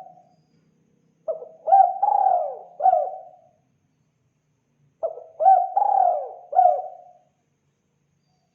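Spotted dove cooing: two phrases of about four arching coos each, the second beginning about five seconds in.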